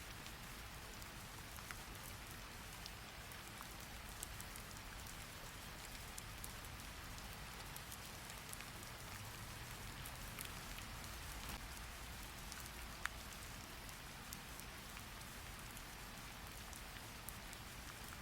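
Steady rain falling, with scattered light ticks of drops throughout and one sharper tick about thirteen seconds in.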